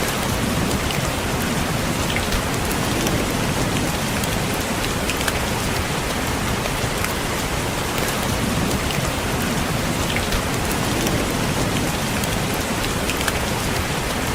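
Steady rain on a window, an even hiss with scattered raindrops tapping.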